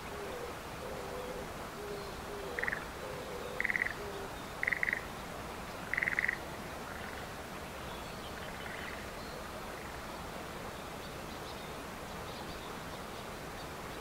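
Birds calling in open countryside: a low two-note hooting call repeated several times in the first few seconds, then four short, louder, higher calls about a second apart, over a steady outdoor hiss.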